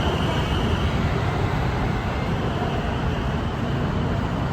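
Steady rumble of city traffic, with the fading high squeal of the departing BTS Skytrain's wheels dying away about a second in.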